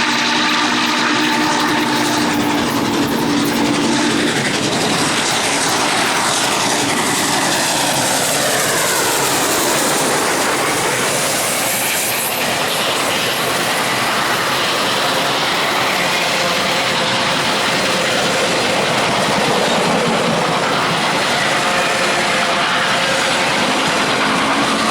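A train rolling past close by: the steady rushing noise of wheels on rail with clickety-clack of the cars. A held tone sounds for the first few seconds and comes back near the end.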